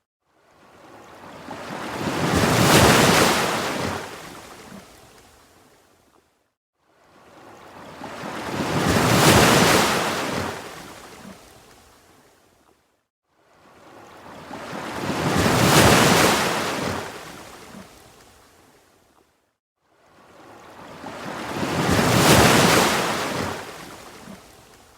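Ocean waves washing in and drawing back: four even swells of surf, one about every six and a half seconds, each building to a peak and then fading almost to silence before the next.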